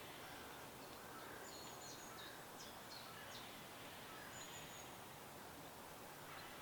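Faint birdsong: a handful of short, high chirps and whistles in the middle, over a steady soft hiss of outdoor ambience.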